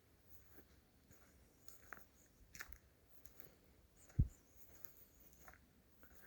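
Faint footsteps on forest leaf litter: a few light, scattered crackles and one louder, dull thump about four seconds in.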